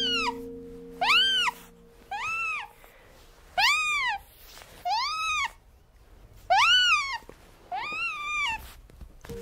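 A small animal giving a series of high-pitched calls, each rising then falling in pitch, about one a second, seven in all. Soft background music fades out about two seconds in.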